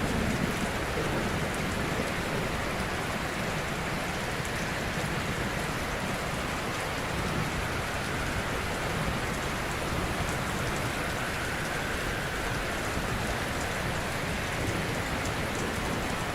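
Ocean waves washing gently on a shore, an even, steady rush of surf with a slightly louder swell right at the start.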